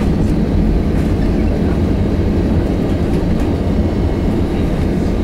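Steady, loud low rumble inside an Airbus A320's cabin during the landing roll on the runway: wheels rolling and engine noise heard through the fuselage.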